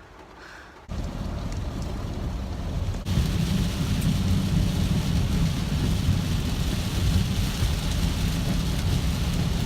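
Heavy rain pouring: a steady, dense hiss with a deep rumble underneath. It starts abruptly about a second in and gets louder about three seconds in.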